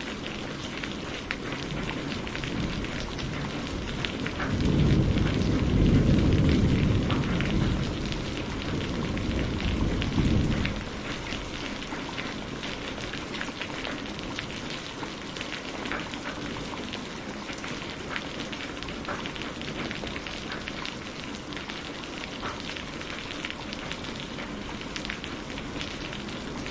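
Steady rain with many separate drop hits ticking through it. A long, low rumble of thunder swells from about four seconds in and fades out around ten seconds.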